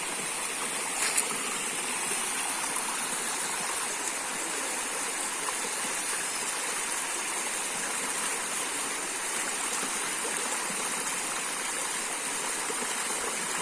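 Small waterfall rushing steadily, an even splashing hiss of falling water, with one brief sharp tap about a second in.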